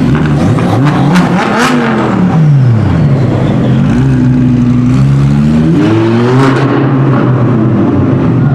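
Supercar engine revving loudly as a car pulls away: the note climbs sharply and drops back within the first three seconds, holds steady, then climbs again about six seconds in before levelling off.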